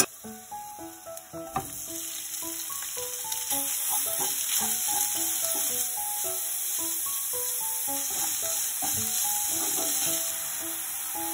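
Minced garlic and ground meat sizzling in hot cooking oil in a nonstick frying pan while being stirred with a wooden spoon. The sizzle starts right away and grows louder about two seconds in, then holds steady.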